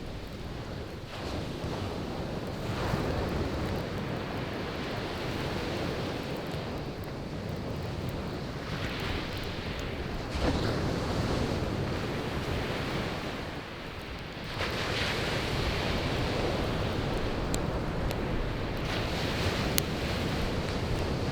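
Surf breaking and washing up a beach, the noise swelling with each wave every few seconds. Occasional sharp pops of burning firewood come through near the end.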